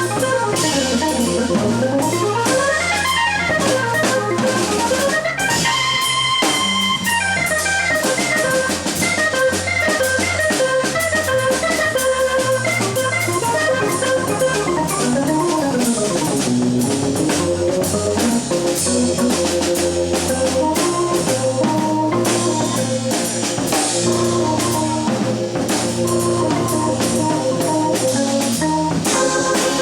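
Jazz trio playing live: a keyboard plays fast runs of notes that rise and fall over a steady line of low bass notes, with a drum kit's cymbals keeping time.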